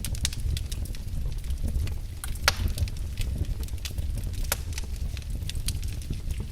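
Wood fire burning in a fireplace: logs crackling with many sharp, irregular pops, the loudest about two and a half seconds in, over a steady low rumble of the flames.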